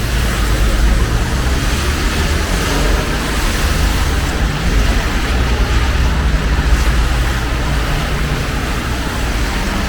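Steady street traffic on a rain-wet road, with a heavy low rumble and an even hiss of rain falling on an umbrella.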